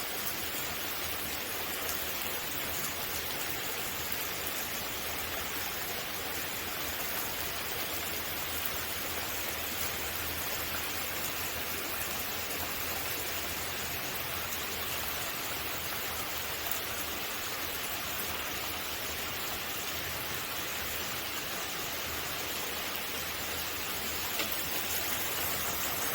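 Steady summer rain coming down hard, an even hiss of falling water, getting a little louder near the end.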